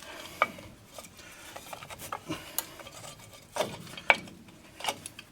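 Drum brake parts being fitted by hand: scattered metallic clinks and light scraping as brake shoes and spring clips are worked into place, a few clinks ringing briefly, the loudest a little after four seconds in.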